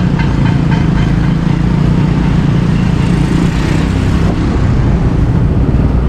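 Motorbike engine running steadily while riding through city traffic, with road and traffic noise around it. A rapid, even ticking fades out about a second in.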